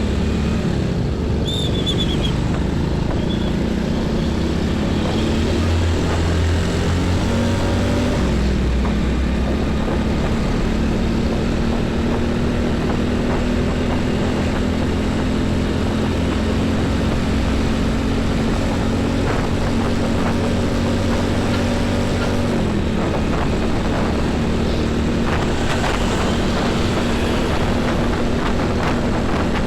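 Heavy diesel trucks on a busy highway: a steady engine drone over a low rumble of traffic, with the engine note dropping in pitch about 8 seconds in and again about 23 seconds in.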